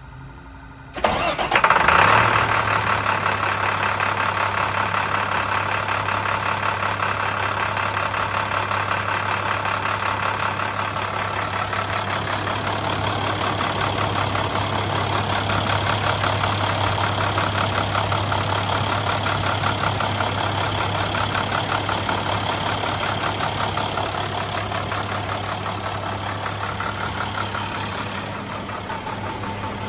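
Cold start of a 2012 International 4300 bucket truck's diesel engine after sitting outside all weekend. It catches about a second in and settles straight into a steady idle.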